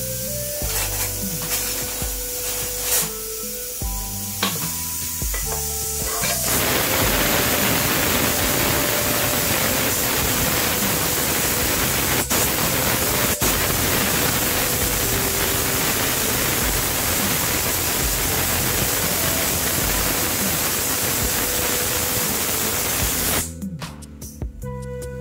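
Chopped onions sizzling in hot oil in a pot: a loud, steady frying hiss starts about six seconds in and cuts off shortly before the end, over background music.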